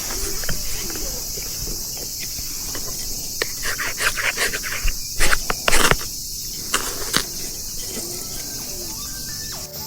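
Crickets chirping steadily in a continuous high-pitched chorus. A run of sharp clicks and scrapes comes in the middle, loudest about five to six seconds in.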